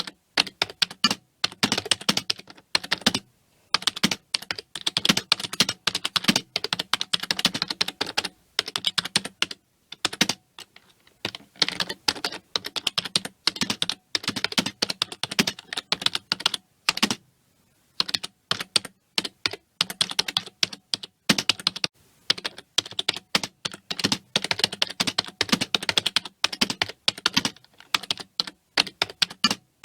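Typing on a computer keyboard: fast, continuous runs of key clicks broken by a few short pauses of about a second.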